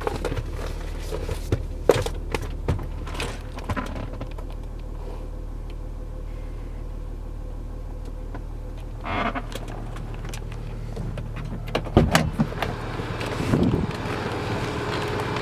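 Range Rover Sport's 2.7 TDV6 diesel engine idling steadily as a low hum, heard from inside the cabin, with scattered clicks and knocks of interior fittings being handled.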